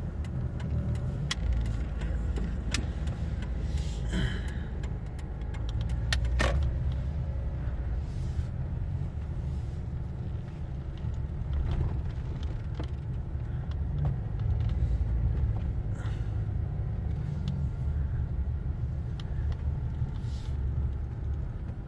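A car driving slowly, heard from inside: a steady low rumble of engine and tyres, with scattered clicks and light knocks.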